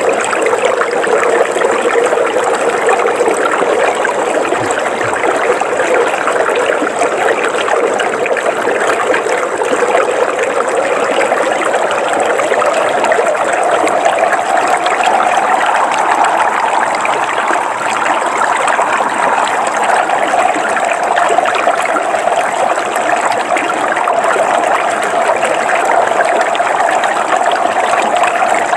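River water flowing steadily over rocks, an even rushing and trickling.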